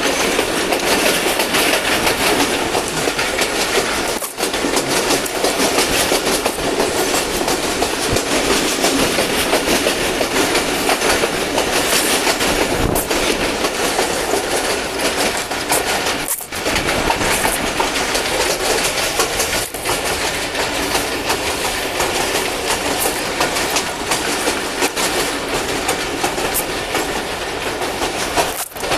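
Passenger train running along the line, heard from an open coach window: a steady, dense rush of wheel and rail noise with some clickety-clack.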